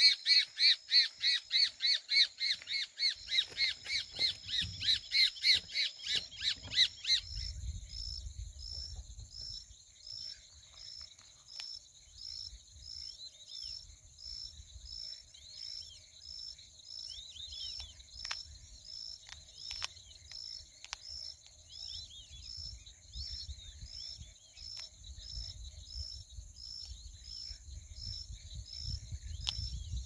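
A bird squawking in loud, rapid repeated calls, about three a second, which stop abruptly about seven seconds in. After that, insects chirp in an even rhythm, about two a second, over a faint continuous high buzz.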